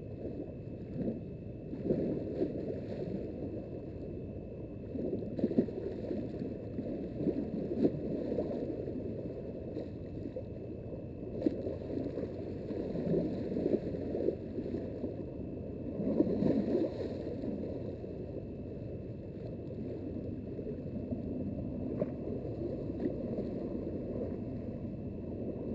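Small waves lapping and gurgling at the water's edge, swelling and easing every few seconds, with a few faint clicks.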